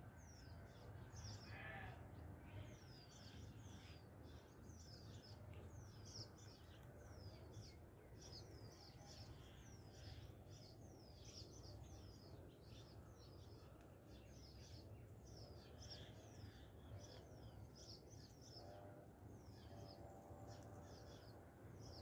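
Faint bird chirping over and over: short high chirps that fall in pitch, one or two a second, over a low steady rumble.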